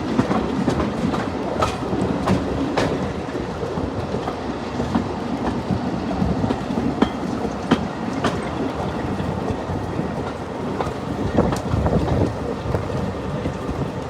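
Railway carriage running along the line: a steady rumble of wheels on rail, broken by irregular sharp clicks and knocks from the track.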